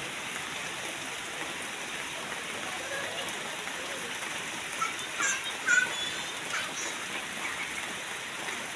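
Steady rain falling. A few brief high-pitched children's shouts about five to six seconds in.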